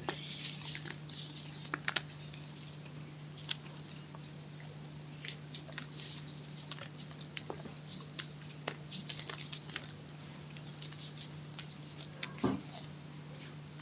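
Close-miked chalk crunching and crumbling: a dense run of small crackles and clicks, with a few sharper snaps, over a low steady hum.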